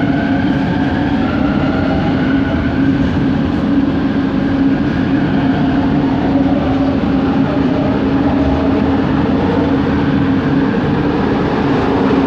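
Bombardier Innovia ART 200 metro train running, heard from inside the car: its linear-induction drive gives a steady low hum, with higher motor whine tones that shift slowly in pitch over the rolling noise.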